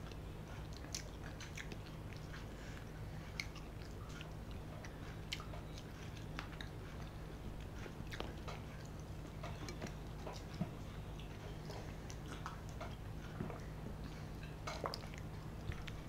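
Close-miked eating sounds: chewing with scattered wet mouth clicks and smacks, along with fingers mixing rice and curry on a steel plate, over a faint steady low hum.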